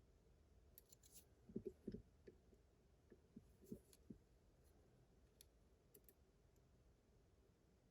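Faint, irregular clicks and taps of lock picks working inside a Miwa magnetic cam lock, most of them in the first few seconds, then only an odd tick.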